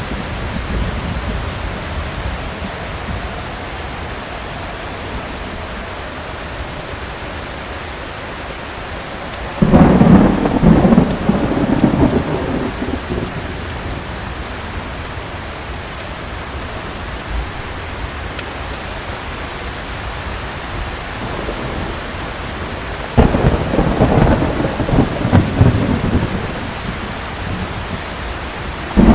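Steady heavy rain with two loud rolls of thunder, the first about ten seconds in and the second about two-thirds of the way through, each rumbling for a few seconds before fading back into the rain.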